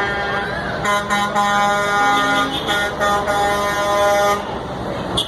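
Truck air horns honking as the trucks pass, in a run of short and longer blasts starting about a second in and lasting about three and a half seconds, over the steady noise of passing trucks.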